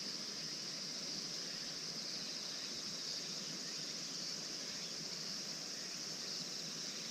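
Steady, high-pitched chorus of insects, with faint pulsing trills now and then.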